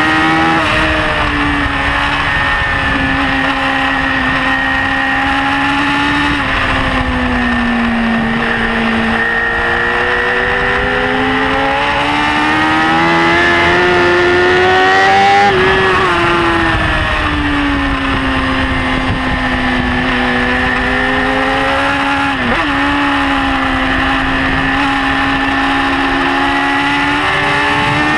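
BMW S1000RR's inline-four engine running hard at high revs, heard close from on the bike. The pitch climbs steadily through the first half, falls away a little past halfway, then holds with a short dip about two-thirds through and rises again at the end.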